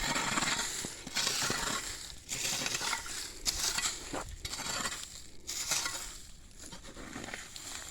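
Hoe scraping and dragging dry leaves and soil across the ground in repeated strokes, each about a second long. The strokes pull the debris into rows under coffee trees.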